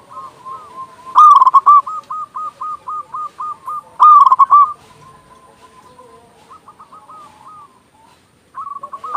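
Zebra dove (perkutut) song: loud phrases of quick, hooked coo notes about a second in, around four seconds in and again near the end, with fainter cooing between them.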